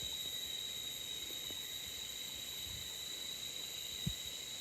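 Steady, high-pitched drone of insects in a tropical forest clearing, holding one pitch, with a faint low thud near the end.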